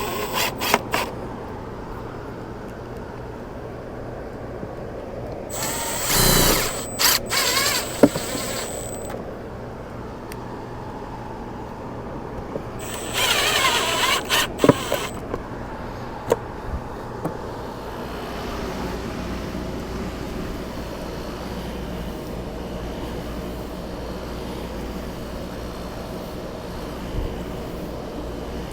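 A power drill runs in two short bursts, about six and thirteen seconds in, its motor whining up and down in pitch, with a few clicks. Under it is a steady machine hum that grows fuller from about eighteen seconds on.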